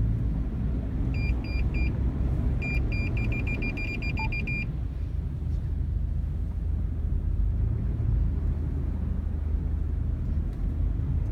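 Steady low rumble of a car on the road. About a second in comes a series of short, high electronic beeps, first three spaced ones and then a fast run of beeping that stops suddenly a little under halfway through.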